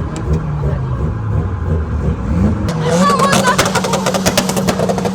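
A car engine revving, followed from about three seconds in by a rapid string of sharp crackling pops over a steady low drone.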